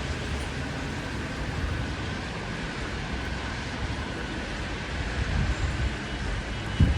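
Steady rush of heavy rain and wind, with a low rumble of wind buffeting the microphone that grows stronger near the end.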